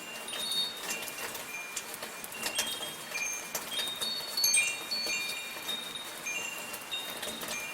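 Metal wind chimes ringing, their high tones struck at random and overlapping, with a brighter cluster about four and a half seconds in, over the steady patter of light rain.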